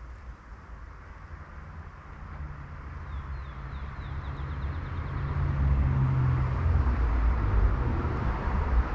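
Engine of a car or truck on a nearby road, a low steady hum with tyre noise growing louder as it approaches.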